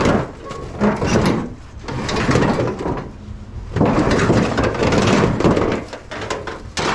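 Scrap car body parts being handled: a run of knocks, bangs and scraping, loudest in bursts around the start and in the middle.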